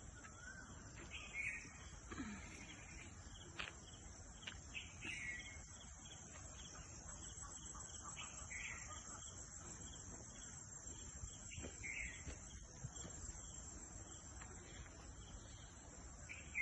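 Insects trilling in a steady high-pitched drone, with short bird chirps breaking in every second or two.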